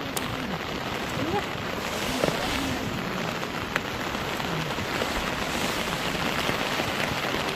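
Steady rain falling, an even hiss with a few sharp drip ticks.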